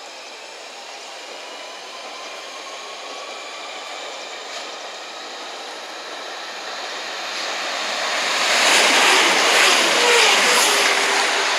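Chiltern Railways diesel multiple unit approaching and passing close at speed: a rush of engine and wheel noise that grows steadily louder, peaks as the train goes by, and has its engine note dropping in pitch near the end.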